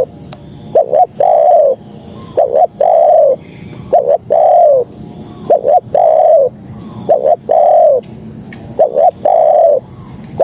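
Spotted dove (tekukur) cooing: a repeated phrase of two short coos and one longer coo that falls slightly at its end, about every one and a half seconds. The call is offered as a female's call to males.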